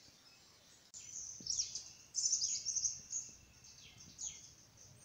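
Small birds chirping, with a run of high chirps and quick downward-sliding notes beginning about a second in.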